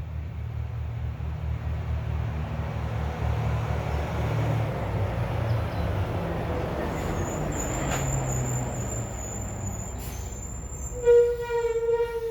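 Delivery truck running past as it slows, its brakes squeaking: a thin high squeal joins the engine rumble about halfway through, then a louder, lower squeal of about a second near the end.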